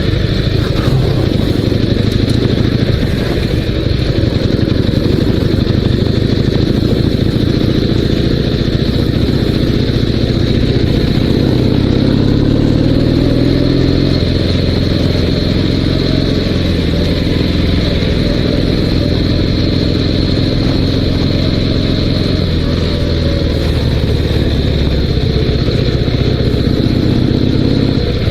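Dnepr MT-16 sidecar motorcycle's 650 cc flat-twin engine running under way, its pitch rising and falling with the throttle and climbing about halfway through.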